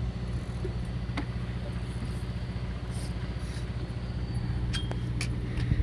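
Fishing boat's engine running steadily with a low, even hum, and a few faint clicks and ticks over it.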